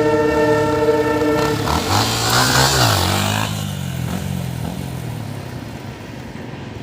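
A horn holding a steady chord cuts off about a second and a half in. A motorcycle then passes close by, its engine pitch bending as it goes past, and fades away.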